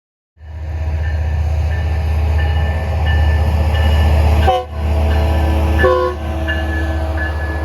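Diesel train with a heavy low engine rumble and a multi-tone air horn sounding over it, the horn broken into separate blasts twice near the middle.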